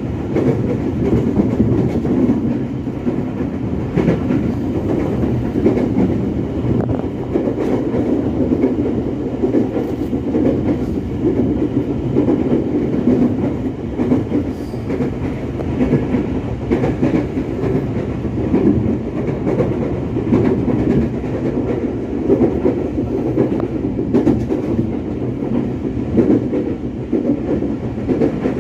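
Electric commuter train heard from inside the carriage while running between stations: a steady rumble of wheels and running gear, with occasional faint clicks over the rails.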